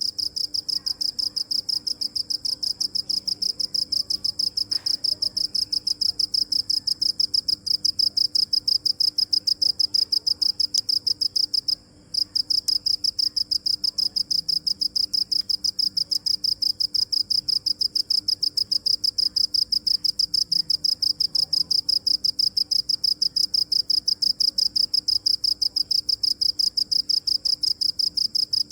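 A cricket chirping: a fast, even run of high-pitched chirps that breaks off for an instant about twelve seconds in, then carries on.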